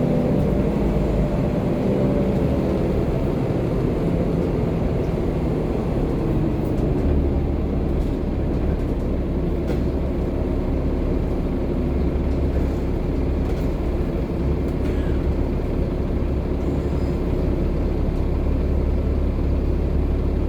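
Volvo B7TL double-decker bus running: the engine note falls over the first couple of seconds, then settles to a steady low drone over road noise.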